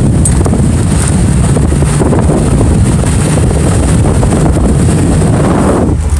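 Wind buffeting the microphone over engine and road rumble inside a moving 1997 Jeep Wrangler. The wind noise drops away just before the end, leaving the low engine rumble.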